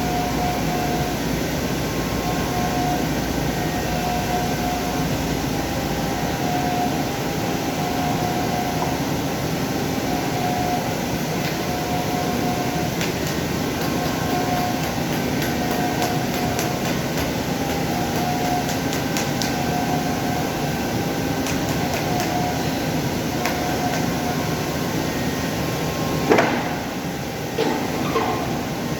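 CNC machine running: a steady mechanical noise with a mid-pitched tone that comes and goes in pulses about every two seconds. Near the end there is a sharp metallic knock, then a smaller one a second later.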